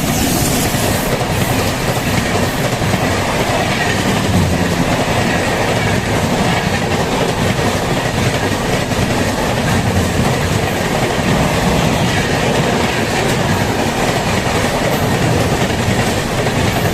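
MEMU electric multiple-unit train running along the track, with a loud, steady rush of wheel-and-rail noise.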